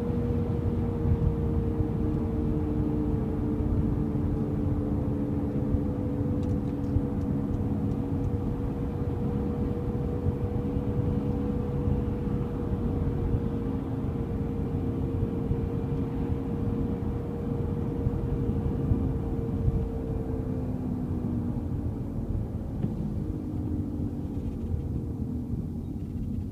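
Acura TSX on the move with a steady droning hum over the road rumble, an unwanted noise that the owner puts down to the drive shaft. The hum holds one pitch, then drops in pitch over the last several seconds as the car slows.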